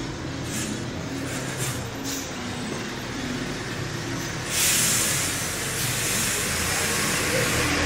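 Car engine running at a steady idle under the vehicle, with a strong hiss joining about four and a half seconds in.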